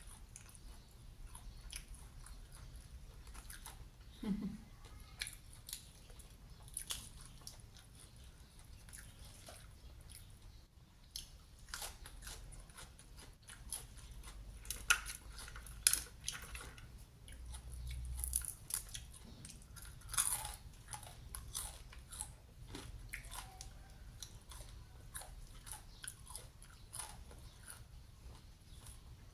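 A person chewing and biting crunchy batter-fried food close to the microphone: many small crunches and wet mouth clicks, with a couple of louder crunches about halfway through.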